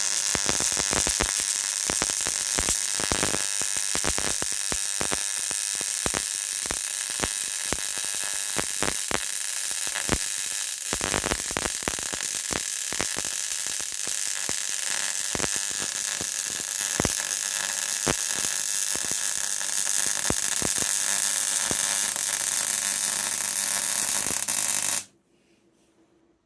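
MIG welding arc running one long continuous weld on steel plate, a steady crackling buzz with frequent sharp pops. The arc cuts off suddenly near the end.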